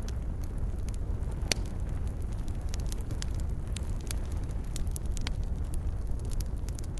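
Wood fire burning in a fireplace: a low steady rumble of flames with irregular sharp crackles and pops, one louder pop about a second and a half in.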